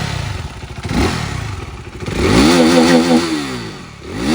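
KTM RC 390 single-cylinder engine (BS3 model, stock older KTM exhaust note) being revved at standstill: a short throttle blip about a second in, then a longer rev that climbs, holds for about a second and drops back, and another rising near the end.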